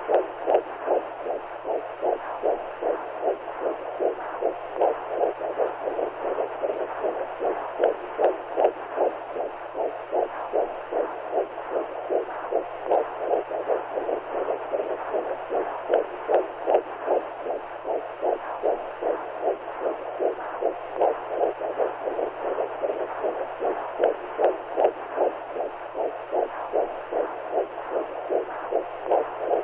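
Womb sound: a heartbeat-like whooshing pulse, about two a second, over a steady muffled rushing noise, as heard inside a mother's belly.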